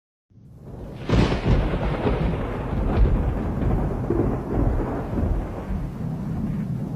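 A thunderclap cracks about a second in and rolls on as a long, heavy rumble, with a steady hiss of rain throughout.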